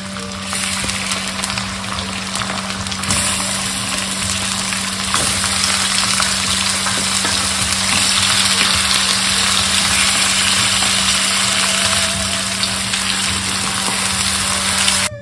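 Sliced onions sizzling in hot oil in a wok. The sizzle grows louder about three seconds in as raw chicken pieces are dropped into the oil to fry, and a wooden spatula stirs them near the end. A steady low hum runs underneath.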